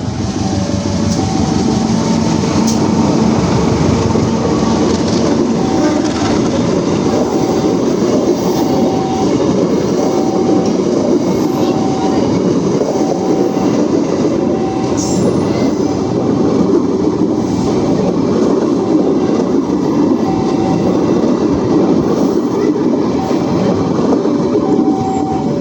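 Train rolling past close by with a loud, steady rumble of wheels on rail. A repeating two-tone beeping runs alongside it throughout.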